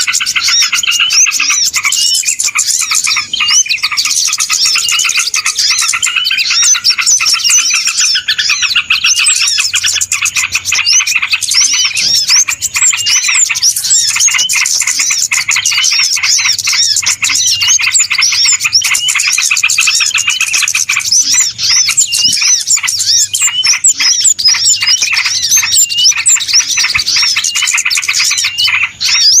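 Dense, busy chorus of many small birds chirping and twittering at once, rapid overlapping high calls without a pause: a bird-lure recording made to draw in small birds.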